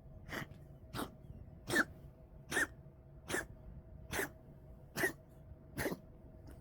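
Cat coughing in a run of eight short, evenly spaced hacks, about one every 0.8 seconds, a symptom of illness that has gone on for a couple of days.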